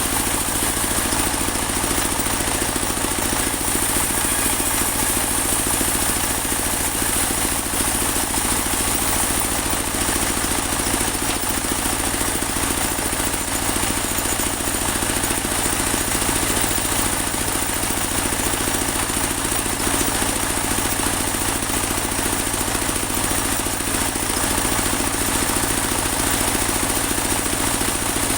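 Portable band sawmill running steadily: its engine drives the band blade through a large teak log, making an even machine noise with a steady high whine.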